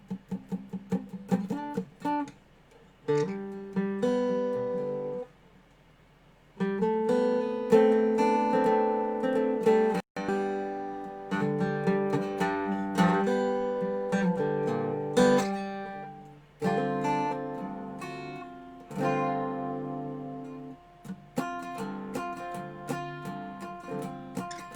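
Dobro resonator guitar played solo in a bluesy jam, with picked single notes and strummed chords. There is a pause of about two seconds between phrases about five seconds in.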